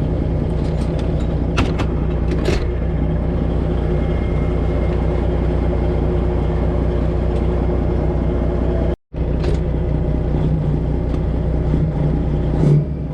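Semi truck's Detroit Diesel 12.7-litre engine running steadily, heard from inside the cab, with a few light clicks about two seconds in. The sound cuts out completely for a moment about nine seconds in.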